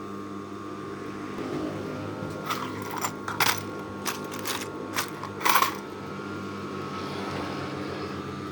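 Tailor's chalk marking fabric: about eight short scratchy strokes in the middle, the loudest two near the middle and just past it, over a steady electrical hum.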